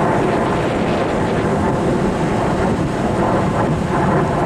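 A fixed-wing airplane's engine running steadily as it flies over.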